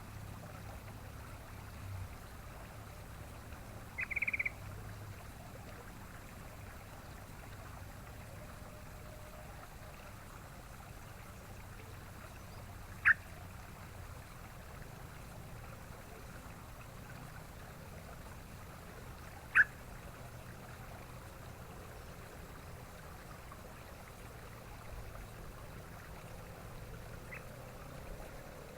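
Sooty-headed bulbul giving a few short, sharp call notes several seconds apart: one about four seconds in, two louder single notes around the middle, and a faint one near the end, over a steady low hum and hiss.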